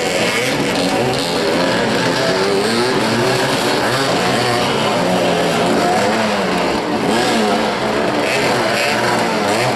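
Several motorcycle engines revving up and down at once, their overlapping pitches rising and falling as the riders accelerate and brake around the field.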